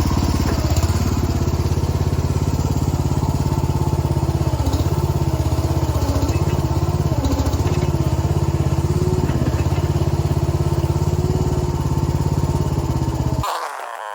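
Chinese mini excavator's small gasoline engine running steadily while digging, a wavering tone in its note as the hydraulics take and release load. The engine sound cuts off suddenly near the end.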